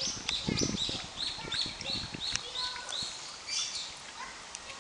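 A songbird calling in a quick run of short, repeated high chirps, about five a second, for about three seconds, then fading out. A few low bumps and rustles sound close to the microphone in the first second.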